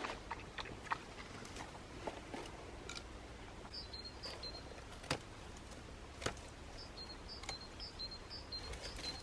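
Faint, distant birdsong: a short two-note phrase, high then slightly lower, repeated in quick runs, with a few sharp clicks or knocks in between.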